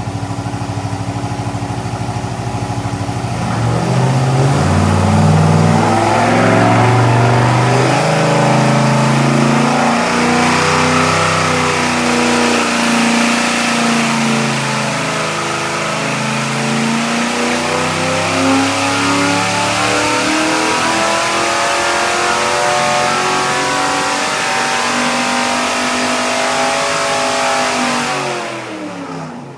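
Chevrolet 604 circle-track crate engine, a small-block V8, making a pull on an engine dyno. It runs steady for a few seconds, then comes up loud and holds high revs with the pitch wavering. Near the end it drops off quickly as the throttle closes.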